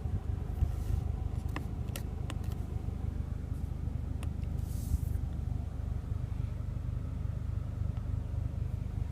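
Steady low rumble of a Mercedes-AMG GLA 45's engine idling, heard from inside the cabin, with a few light clicks.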